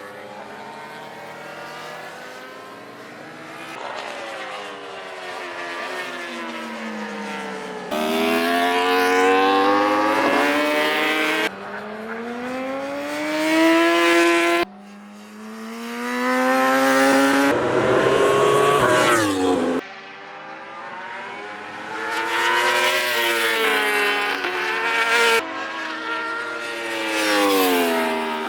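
Racing motorcycle engines at high revs, the pitch climbing through the gears and falling away again as bikes pass. The sound jumps abruptly between passes several times.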